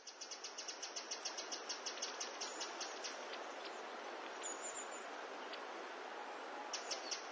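A small bird chirping in a quick run of short high chirps, about four a second. The chirps thin out in the middle and pick up again near the end, over a steady noisy background.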